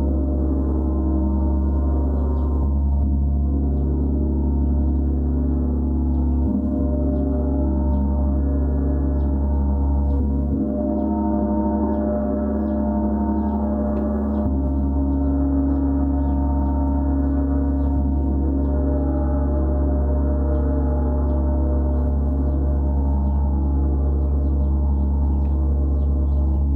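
Gong played continuously into a sustained wash: a deep steady hum under many ringing overtones, with the mix of tones shifting every few seconds and no separate strikes standing out.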